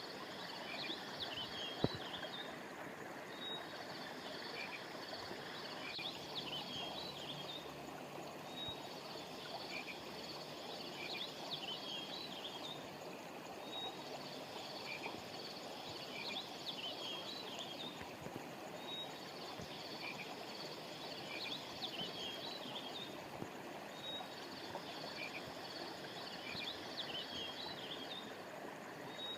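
Steady rush of flowing stream water, with bursts of high chirping calls repeating about every five seconds. One sharp click about two seconds in.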